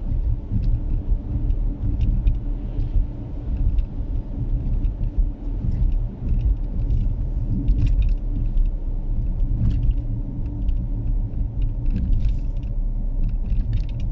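Steady low rumble of a car, with scattered light clicks and taps over it.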